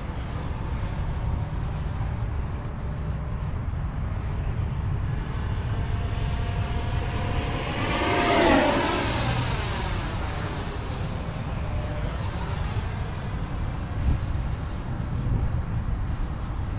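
E-flite F-18 Blue Angel electric ducted-fan RC jet flying, its 80mm fan whining steadily. It makes a close pass about halfway through, getting louder and then dropping in pitch as it goes by.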